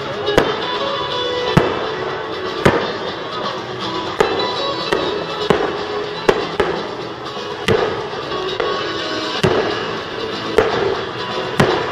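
Aerial fireworks bursting overhead, a run of sharp bangs about one a second, over background music.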